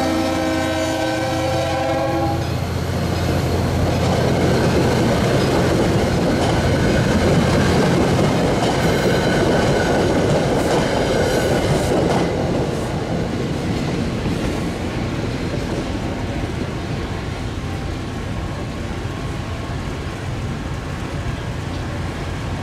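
Diesel locomotive's chime air horn (GP40PH-2, Leslie RS3L) cutting off about two seconds in. The train then passes, with the clatter and rush of wheels on rail and a steady diesel hum beneath. The rush is loudest in the first half and eases off after that.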